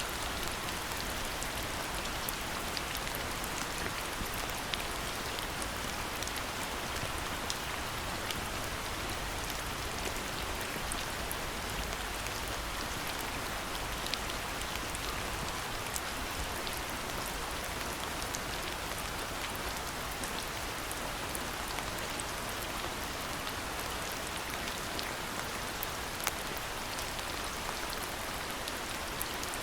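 Steady rainfall, an even wash of rain with individual drops ticking sharply here and there.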